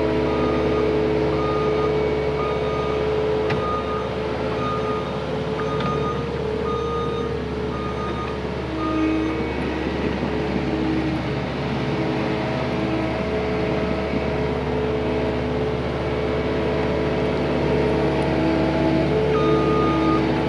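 Diesel heavy equipment running with its backup alarm beeping about once a second while reversing; the beeping stops for about ten seconds in the middle while the engine keeps running, then starts again near the end.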